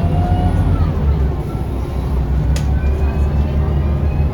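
Scania L94UB city bus heard from inside the saloon: the diesel engine and drivetrain running steadily with a deep drone, a faint whine rising in pitch at the start, and a single sharp rattle or click about two and a half seconds in.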